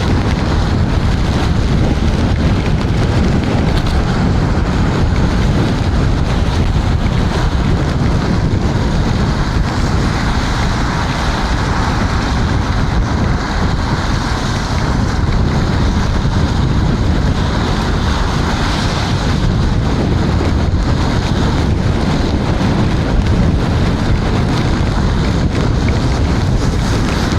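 Steady wind rush buffeting the helmet-mounted microphone of an electric scooter riding at speed, over a constant hiss of tyres on wet road.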